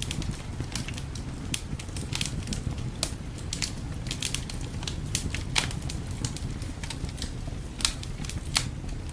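Wood fire crackling, with irregular sharp snaps and a few louder pops over a steady low rumble.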